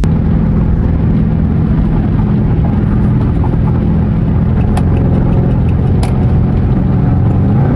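Dodge Charger R/T's 5.7-litre Hemi V8 droning steadily at cruise through an exhaust with the resonator and mid mufflers removed. Two sharp clicks come about five and six seconds in, and the engine pitch starts to rise near the end.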